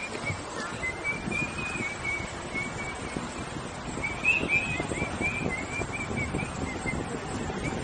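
A bird chirping over and over in short high notes, over rough wind noise and rumble on the microphone.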